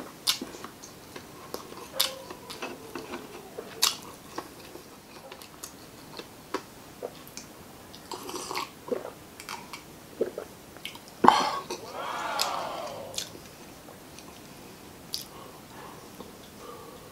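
Close-up mouth sounds of a man eating spicy adobo chicken gizzards and liver by hand: wet chewing with frequent smacks and clicks, a few sips of lemonade, and about two-thirds of the way through a loud sharp breath followed by a voiced sound about a second long that falls in pitch.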